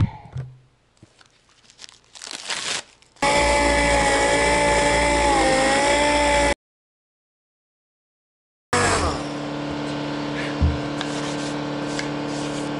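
A power tool's electric motor running for about three seconds with a slightly wavering pitch, followed by a sudden cut to dead silence and then a steady mechanical hum.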